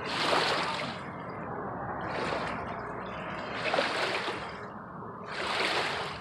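Small waves lapping against the lakeshore, each wash rising and falling about every second and a half to two seconds.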